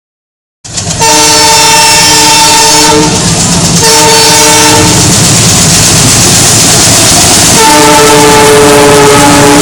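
Goods train passing close by, its locomotive horn sounding three long blasts: one of about two seconds, a shorter one after a brief gap, and a third starting about three-quarters of the way through and still going at the end. The steady rumble and clatter of the wagons runs under the horn throughout.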